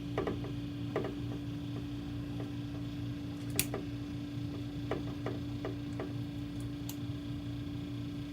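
Short metallic clicks and taps of an adjustable wrench on the forcing screw of a three-jaw gear puller, coming at uneven intervals, the sharpest about three and a half seconds in. A steady low hum runs underneath.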